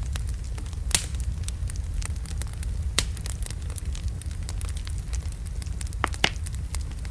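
Wood logs burning in a fireplace: a steady low rumble of the flames with scattered crackles and a few sharp pops, the loudest about three seconds in and near the end.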